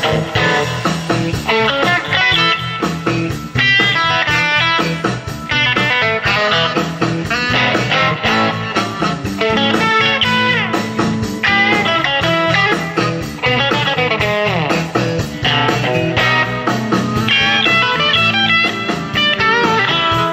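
Band music in a blues-rock style: an electric guitar plays lead lines of quick note runs and slides over a steady bass part.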